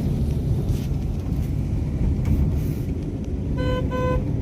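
A car on the move, with a steady low engine and road rumble. Near the end a car horn gives two short beeps in quick succession.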